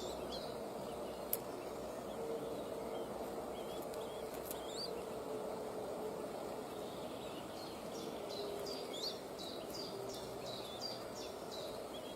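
A bird's short high chirps, each dropping in pitch, in quick runs of about three a second at the start and again near the end, over a steady outdoor hiss with a faint hum. A single sharp click comes a little over a second in.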